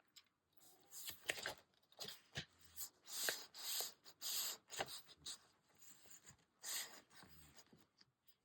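Paper being handled at a craft table: a series of short, irregular rustles and crinkles with a few light taps.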